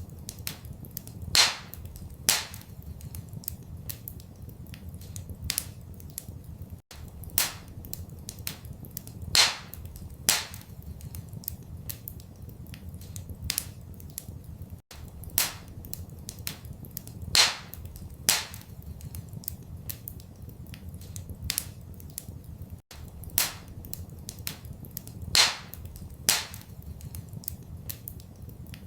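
Wood fire crackling and popping, with irregular sharp snaps over a low steady rumble. The same run of pops repeats every eight seconds, with a brief dropout at each repeat: a looped recording.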